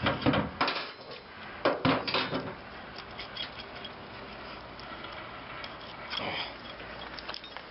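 Metal pieces or tools being handled, clanking and knocking in a few short clusters: about a second in, around two seconds, and again around six seconds.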